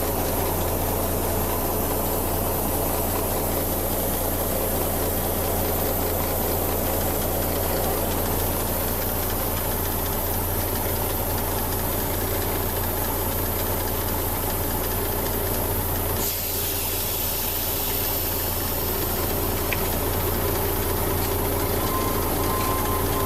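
Caterpillar 3406 inline-six diesel in a 1989 Freightliner day cab idling steadily, with a constant hiss over it.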